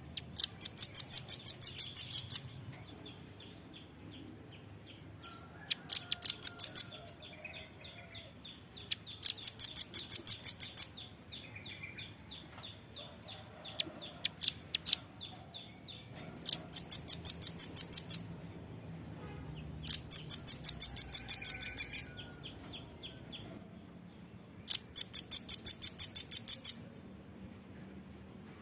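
Velvet-fronted nuthatch calling in rapid trills of sharp, high notes: six loud bursts, each one to two seconds long and a few seconds apart, with scattered single chips between them.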